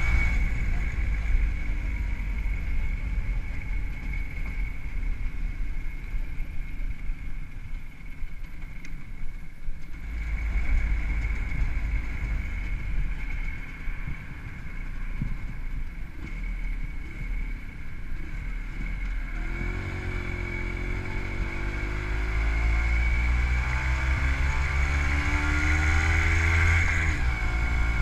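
A WSK 125 motorcycle's single-cylinder two-stroke engine, fitted with a Dellorto PHBG carburettor and CDI ignition, running while the bike is ridden, with wind rumble on the microphone. About two-thirds of the way in the engine note climbs steadily as it accelerates, then falls away near the end.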